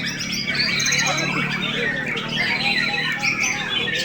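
Many caged white-rumped shamas (murai batu) singing at once in a songbird contest: a dense, overlapping tangle of varied whistles, trills and chattering phrases, over a steady low hum.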